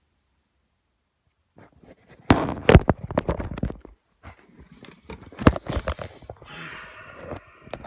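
Clicks, knocks and clatter of metal motorcycle engine parts being handled during crankcase assembly, with the loudest clunks about two and a half and five and a half seconds in, and a stretch of rattling near the end.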